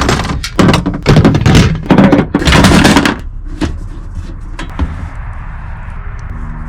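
Camping gear being handled close to the microphone: loud rustling and knocking for about three seconds, then a few faint clicks over a low steady background.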